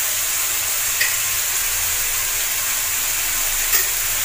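Chopped onion, tomato and cabbage sizzling steadily in hot oil in a pan while being sautéed, with a couple of light clicks from stirring.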